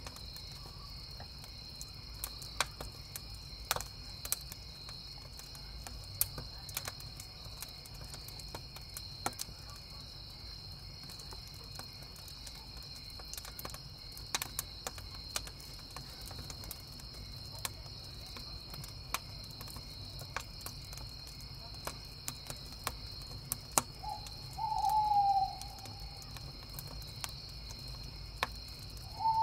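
Wood fire crackling with scattered sharp pops over a steady chorus of crickets. An owl hoots once, a short falling call, near the end, and begins a second hoot at the very end.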